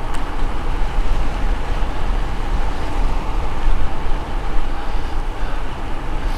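Steady wind buffeting and road rumble on an action camera's microphone while riding a bicycle along a road.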